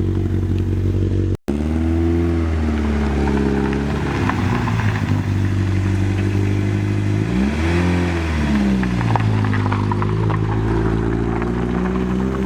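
Engine of a 32-year-old vehicle running on a warm-up drive, its pitch rising and falling back twice as it accelerates and eases off. The sound cuts out abruptly for an instant about a second and a half in.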